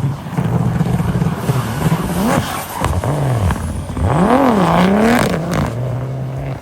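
A drift car's engine held at high revs, its pitch dropping and climbing sharply several times in the middle as the throttle is worked, then held steady again until it cuts off suddenly at the end.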